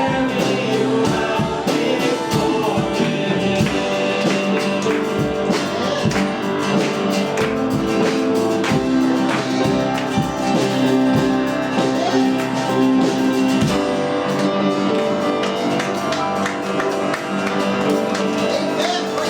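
Live worship band playing, with strummed guitar over sustained chords and voices singing.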